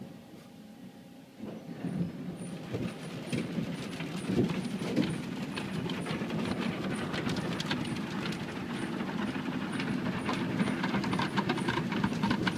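Autec automatic car wash running over the car, heard from inside the cabin: water spray striking the body and glass over a steady machine hum. It is quiet for about the first second and a half, then builds into a dense run of small hits.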